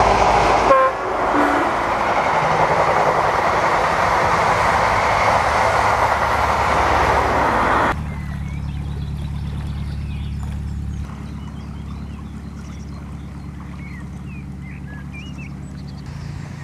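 A passenger train passing at speed, a loud steady rush of wheels and engines that cuts off sharply about eight seconds in. After it a narrowboat's diesel engine runs low and steady, with birds singing.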